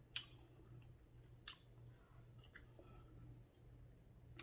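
Faint eating sounds: a person chewing quietly, with a few short sharp clicks, about one every second or so, over a low steady hum.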